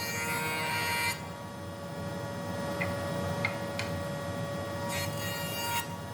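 Hand tool scraping on wood in two strokes, one ending about a second in and another a little before the end, with a few light clicks between them over a steady hum.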